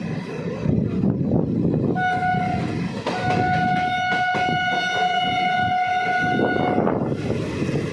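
Running train with a steady rumble as its horn sounds a short blast about two seconds in, then one long blast of about three and a half seconds on one steady pitch.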